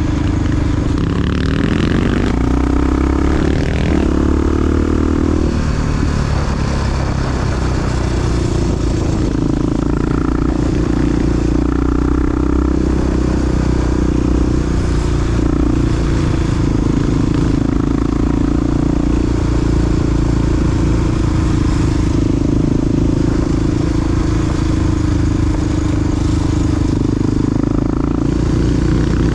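Big single-cylinder Honda XR dual-sport motorcycle engine running under way, its pitch rising and falling through throttle and gear changes in the first few seconds, then holding a steady note.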